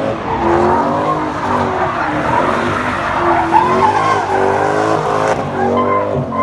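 A car doing donuts: its engine revs rise and fall repeatedly while the spinning tyres screech across the pavement.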